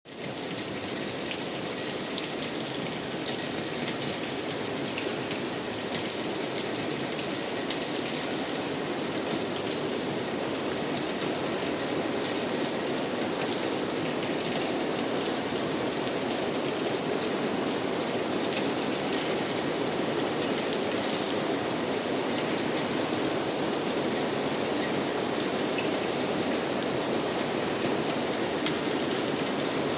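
Steady heavy rain falling, with fine drop ticks on a hard surface, fading in at the very start and then holding even.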